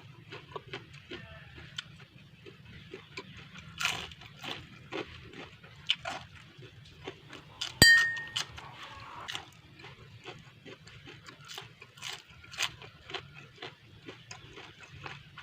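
Close-up chewing of crunchy Indonesian fried snacks (gorengan) such as ote-ote vegetable fritters, with raw chilies: irregular crunches and wet mouth sounds. There is one sharp clink, the loudest sound, about eight seconds in.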